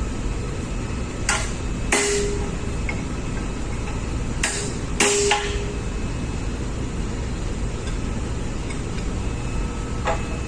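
Four metallic hammer blows in two pairs on a spanner, the 'key', loosening the nut of a ship's main engine fuel injector. The second blow of each pair rings briefly. Under them runs a steady low hum of engine-room machinery.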